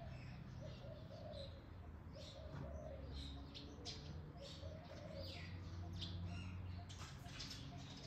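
Birds chirping in many short high notes, with a lower repeated warbling call beneath them.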